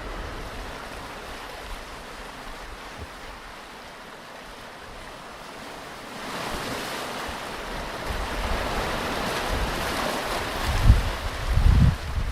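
Ocean surf on a beach: a wave builds about halfway through and washes in, the rush of water growing louder. Near the end, two low gusts of wind buffet the microphone.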